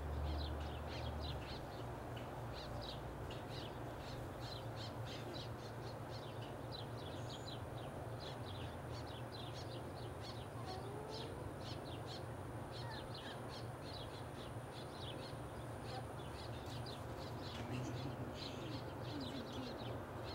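Birds calling in the background: short, high-pitched calls repeated over and over, over a steady low hum.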